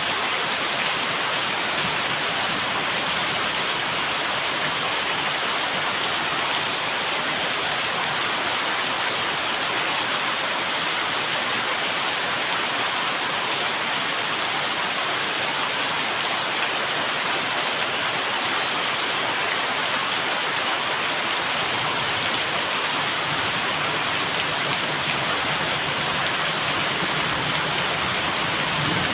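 Steady heavy rain, an even hiss without a break.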